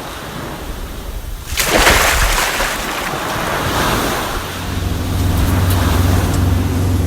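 Scarab 255 Wake jet boat running on the water: rushing water and wind on the microphone, with a loud surge of spray about two seconds in. From about four and a half seconds a steady low engine drone joins.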